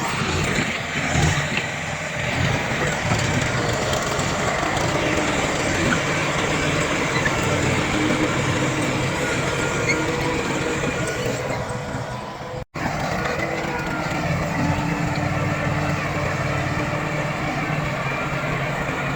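Heavy diesel earthmoving machinery engines running steadily. The sound cuts out for an instant about two-thirds of the way through, then carries on.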